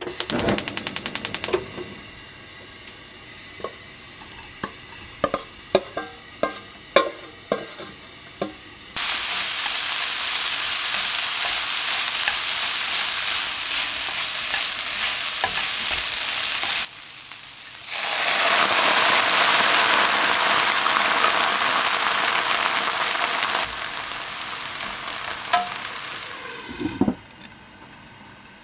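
A gas burner's igniter clicks rapidly for about a second, followed by a few light knocks. Then rehydrated dried eggplant, seasoned with soy sauce, garlic, scallion and perilla oil, sizzles loudly as it is stir-fried in a nonstick wok over medium heat, with a brief break partway. Near the end the sizzle eases and a glass lid clanks onto the pan.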